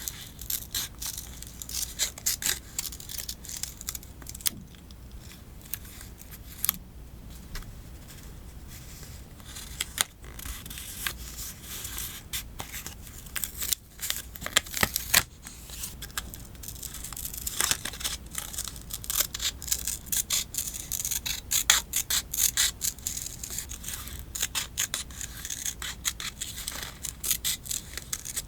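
Scissors cutting paper in many short, crisp snips, along with paper rustling and tearing. The sounds thin out a few seconds in and come thick and fast in the second half.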